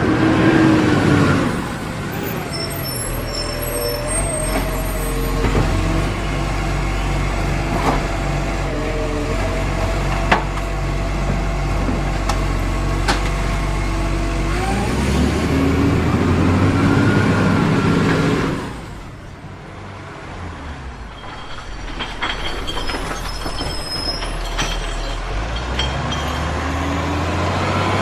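A truck engine running, revving up near the start and again a little past halfway, then dropping away suddenly to a quieter run for the last third.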